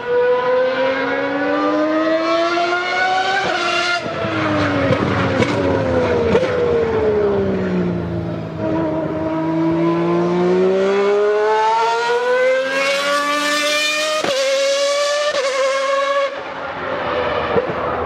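Formula One car engine at racing revs. Its pitch climbs, then breaks sharply at a gear change about four seconds in, falls slowly for several seconds and climbs again, with another sharp gear change near fourteen seconds and a drop in pitch after about sixteen seconds.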